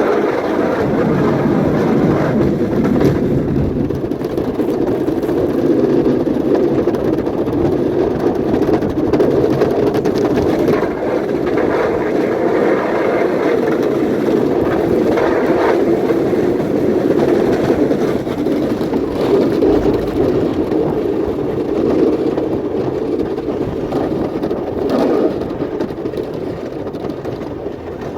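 An engine running steadily under load, with small swells in level and no pauses.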